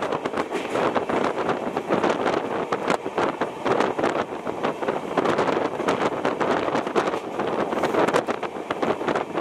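Indian Railways passenger train running at speed, heard from inside the coach at the window: a steady rush of wind and running noise with many small, irregular rattles and knocks from the carriage.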